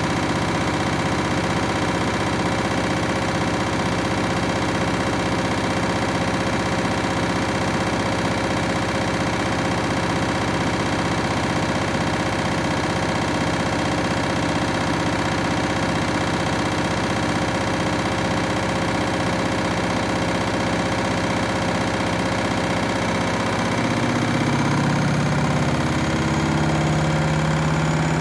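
Candy washing machine on its spin cycle: the drum spinning with a steady motor whine and rumble. About 24 seconds in, the low hum changes pitch and gets slightly louder as the spin speed changes.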